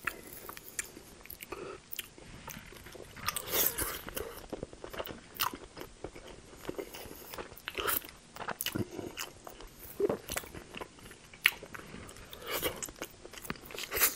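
Close-miked chewing of pulled rotisserie chicken meat: wet mouth smacks and sharp clicks coming irregularly, several a second.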